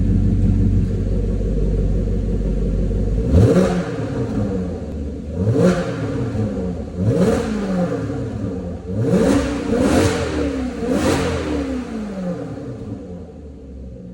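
Maserati Quattroporte's V8 idling, then revved six times in quick blips, each rev rising sharply in pitch and falling straight back to idle.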